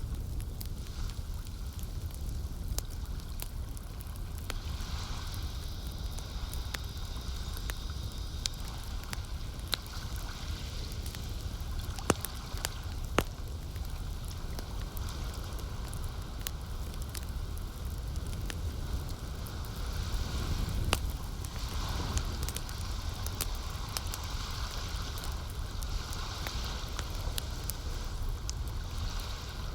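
Campfire crackling with scattered small pops and two sharper snaps near the middle, over a steady low rumble and the soft lapping of lake water.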